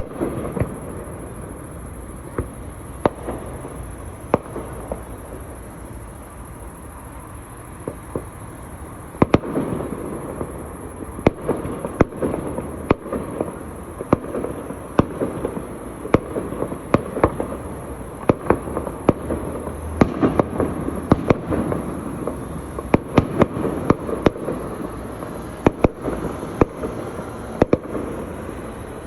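Fireworks display going off: sharp bangs over steady crackling, sparse at first, then coming thick and fast from about nine seconds in.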